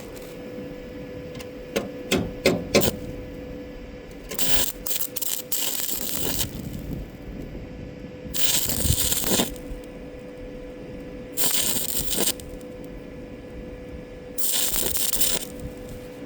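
A welded steel joint being cleaned up by hand: a few quick metal knocks and clicks, then four separate bursts of scratchy scrubbing, each a second or two long, with a steady hum underneath.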